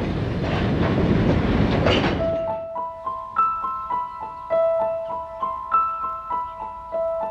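Freight train cars rolling past with wheel clatter on the rails, which cuts off about two seconds in. A glockenspiel-like melody of bright struck notes at a quick, even beat follows.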